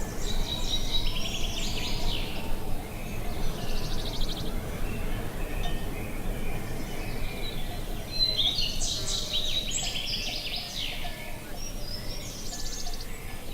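A songbird singing in short phrases of quick chirps and trills, four bursts with pauses between them, over a steady low background noise.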